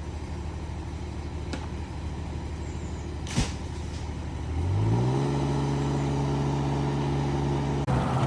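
A heavy machine's engine runs steadily, then revs up about halfway through and holds at the higher speed. There is a single sharp knock a little before the rev-up.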